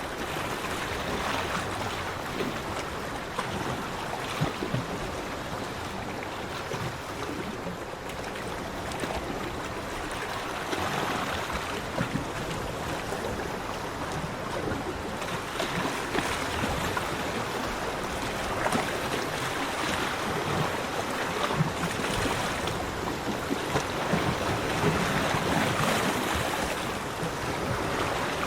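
Sea waves washing onto a beach: a continuous surf wash that swells and eases every few seconds, with many small splashes.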